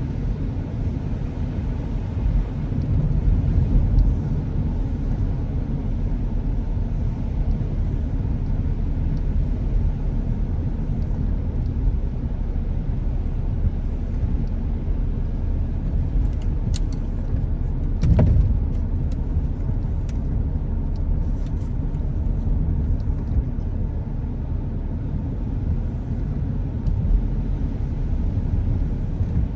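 Car driving: a steady low rumble of road and engine noise, with a single thump about eighteen seconds in and a few faint ticks around it.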